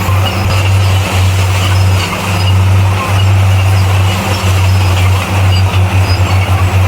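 Heavy earthmoving machine's engine running with a steady low drone.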